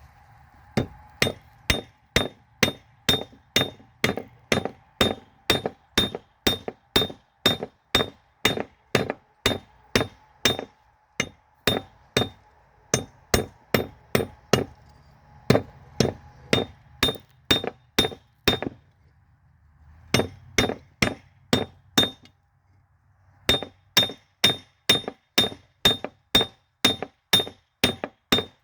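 Hammer blows on a railroad spike over an anvil while forging it, about two strikes a second, each with a bright ring. The hammering stops twice briefly in the second half, then starts again.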